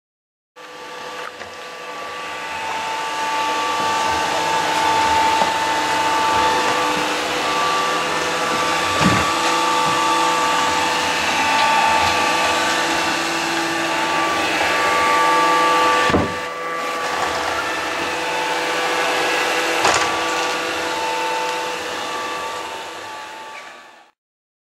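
Robot vacuum cleaner running: a steady whir with several held whining tones. Three short knocks come along the way.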